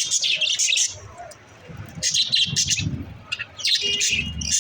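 Pet budgerigars chirping in three clusters of quick, high chirps, over a low rumble.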